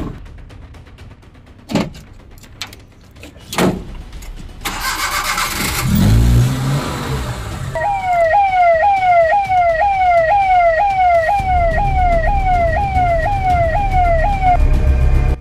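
Maruti Omni van ambulance: the rear door slams shut, two more thuds follow, then the engine cranks and starts about five seconds in. From about eight seconds its electronic siren wails fast, about two cycles a second, over the running engine, and stops shortly before the end.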